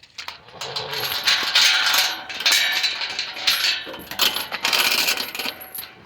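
Repeated metallic clattering and jingling, a run of sharp clinks and rattles.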